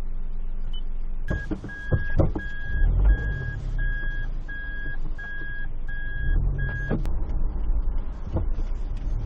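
Inside a car, a warning beeper sounds a single high tone about twice a second for around five seconds and then stops with a click, over a steady low engine drone. A few knocks come just before the beeping starts.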